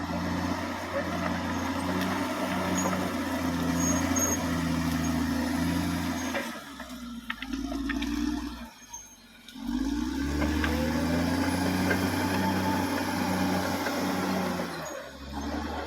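Caterpillar D6R XL bulldozer diesel engine running steadily under work. It drops away sharply about halfway through, then comes back with a rising pitch as it revs up again, and dips briefly near the end.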